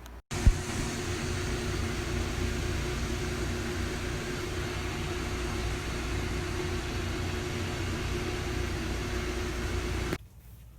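A machine running steadily with a loud hiss and a steady hum, starting suddenly with a click just after the start and cutting off abruptly about ten seconds later.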